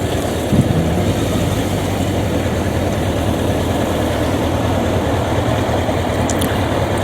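2006 Kawasaki ZZR600's inline-four engine running steadily as the motorcycle is ridden, with no revving up or down.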